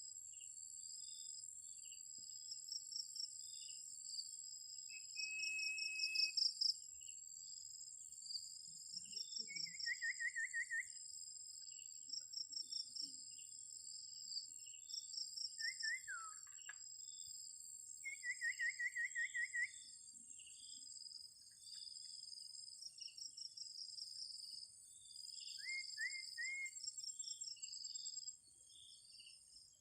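Crickets and other insects chirping steadily in high, pulsing choruses. Over them come a few bird calls: a held whistle about five seconds in, trilled phrases around ten and nineteen seconds, and short rising notes near the end.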